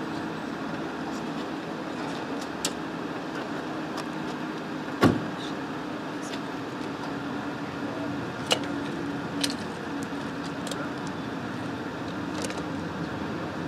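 Steady hum of an idling car engine, broken by a few sharp clicks, the loudest a single knock about five seconds in.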